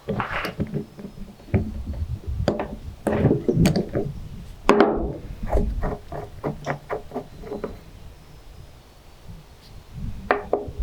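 Knocks and clicks of hand tools and carburetor parts being handled on a workbench: scattered knocks, a quick run of light taps about five to seven seconds in, then a quieter stretch and a few more taps near the end.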